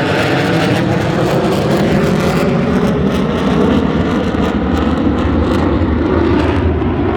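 Military jet aircraft flying past with a loud, steady jet-engine roar. Its high hiss dies away about two and a half seconds in, leaving a low rumble.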